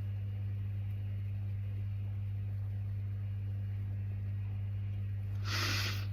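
A steady low hum with nothing else going on, then a breath drawn in about half a second long near the end.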